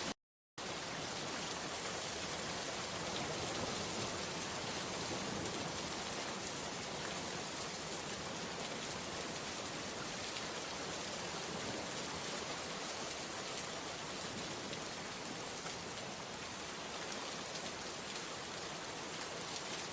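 Steady rain falling, an even hiss of many drops that cuts out for about half a second right at the start.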